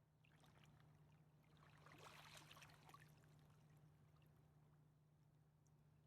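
Faint river water lapping and splashing, swelling briefly about two seconds in, over a low steady hum.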